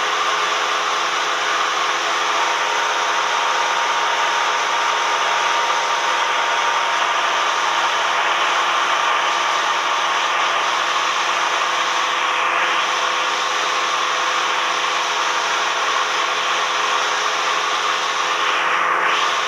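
Cessna 172M cabin noise: the four-cylinder Lycoming engine and propeller running at a constant setting, a steady drone with a broad rushing hiss and a few steady hum tones.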